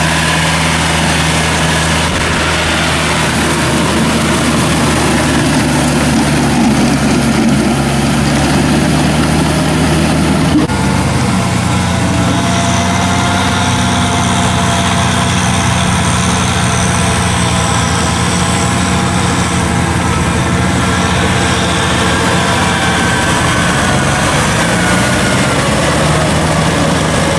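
Tractor engine running steadily; about ten seconds in there is a short sharp knock, after which its note changes.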